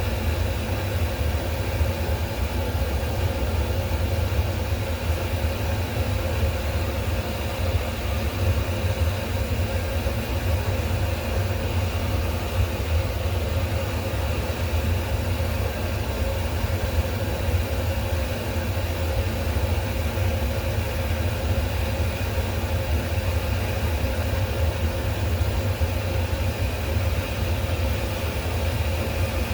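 Steady low mechanical hum and rumble with a faint steady tone above it, unchanging, with no distinct knocks or starts.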